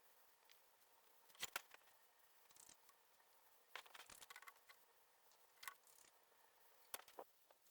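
Faint, scattered clicks and scrapes, a handful of short sharp sounds with a small cluster in the middle, over a quiet background.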